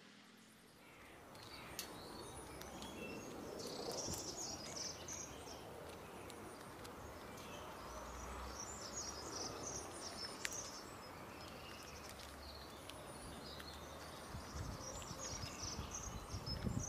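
Faint outdoor ambience with small birds chirping repeatedly in the background and a few light clicks, starting about a second and a half in.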